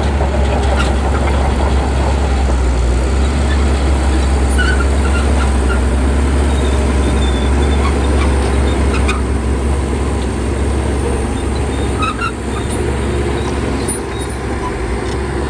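Shantui bulldozer's diesel engine running steadily under load, with a few faint short squeaks.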